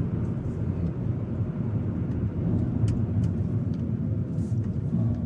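Hyundai Elantra N's turbocharged 2.0-litre four-cylinder engine running under way with road noise, a steady low drone heard from inside the car rather than at the exhaust.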